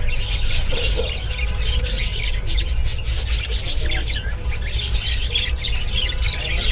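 Many small birds chirping and squawking at once, a dense, unbroken chatter of short high calls, over a low steady rumble.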